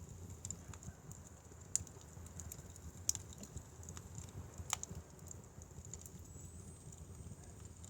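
Firewood fire crackling: scattered sharp pops and ticks, three louder ones spread through, over a low steady rumble.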